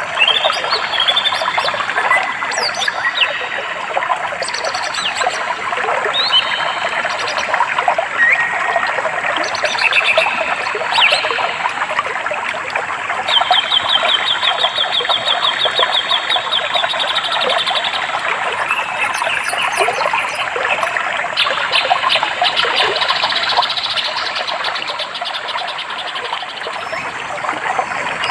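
Flowing stream water running steadily, with several songbirds chirping and whistling over it; about halfway through, one bird gives a rapid, even trill lasting around five seconds.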